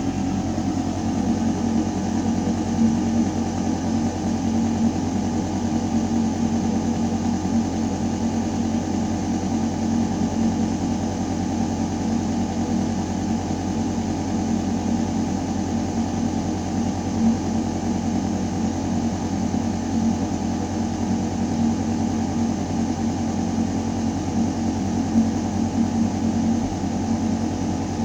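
Building ventilation shaft humming: a steady mechanical drone with air rushing through metal ductwork, and a few faint steady tones over the rush.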